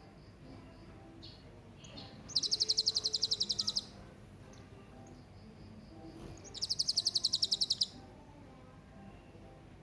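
Serindit (hanging parrot) calling: two bursts of rapid, high, evenly repeated chirps, about ten notes a second and each burst about a second and a half long, the first a couple of seconds in and the second past the middle.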